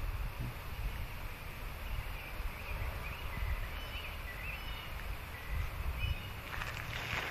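Outdoor ambience: birds chirping in short scattered calls over a steady low rumble, with a brief rustle near the end.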